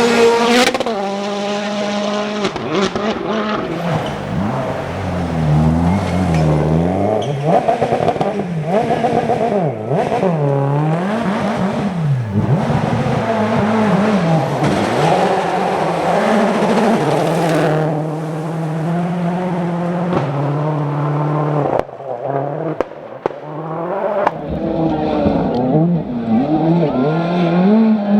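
Rally cars driven hard, engines revving up and down in quick sweeps as the drivers shift gears and lift off, with tyre noise from the stage surface. The sound drops away briefly about three quarters of the way through, then another car comes in at high revs.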